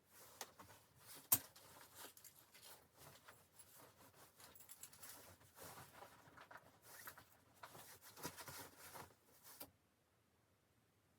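Irregular rustling and crinkling handling noises with scattered small clicks and one sharp click about a second in; the rustling stops abruptly near the end.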